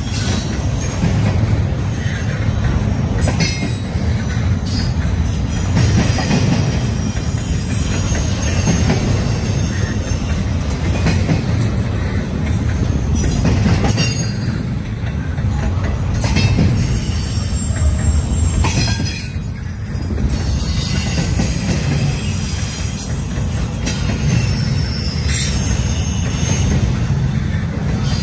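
Double-stack intermodal freight train rolling past: a steady low rumble from the wheels and well cars, with irregular clanks as wheels cross rail joints and thin high-pitched wheel squeals now and then.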